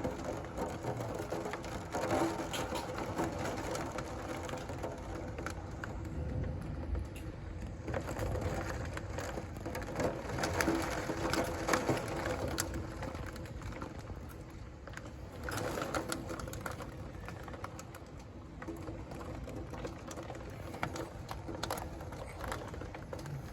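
Rain and hail hitting the windows during a thunderstorm: a dense, irregular clatter of small ticks over a steady hiss, with a faint steady hum underneath.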